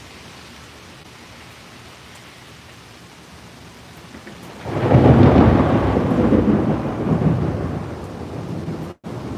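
Steady rain, then about halfway through thunder breaks in suddenly as a loud rumble that rolls in a few swells for several seconds and dies down. The sound drops out for an instant near the end.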